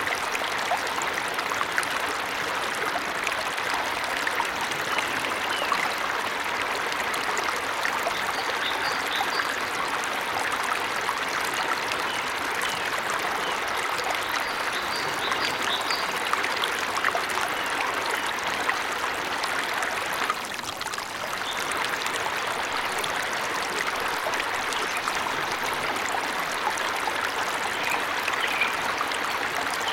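Waterfall rushing steadily, with faint short bird chirps here and there; the rush dips briefly about two-thirds of the way through.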